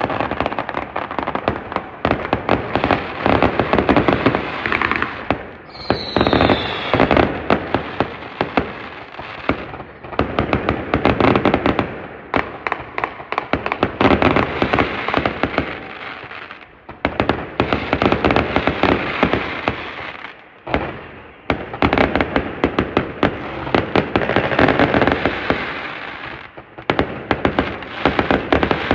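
Fireworks going off in dense barrages of rapid crackling bangs, coming in waves of a few seconds with short lulls between them. A short falling whistle sounds about six seconds in.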